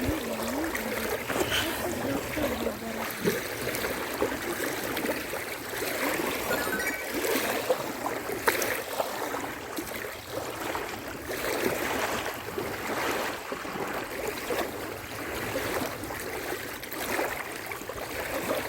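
Small wind-driven waves lapping against the bank in uneven surges, mixed with wind noise.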